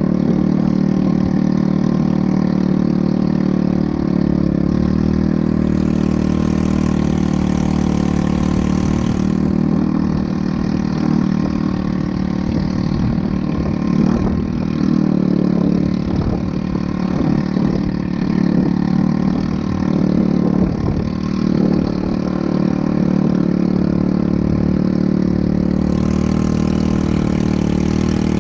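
ATV engine running steadily, its pitch and level wavering a little about halfway through.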